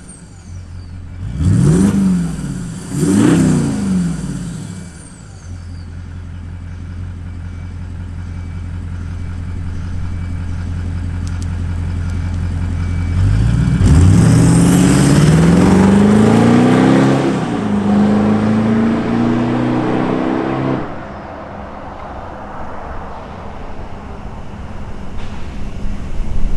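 Toyota 200 Series LandCruiser's twin-turbo diesel V8 through a twin 3-inch into 4-inch stainless turbo-back exhaust: two quick throttle blips, then a steady engine note. About 13 seconds in it climbs in pitch under acceleration, steps down at a gear change, then eases off.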